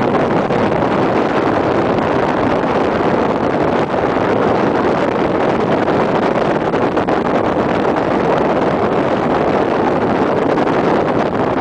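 Motorboat running steadily at speed, mixed with a constant rush of wind and water noise on the microphone.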